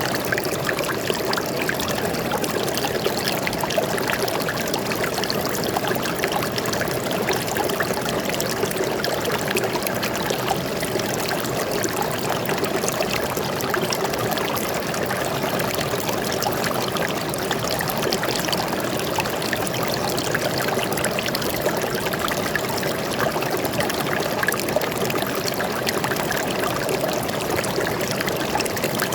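Stream of water flowing and trickling steadily over rocks, a continuous babbling rush.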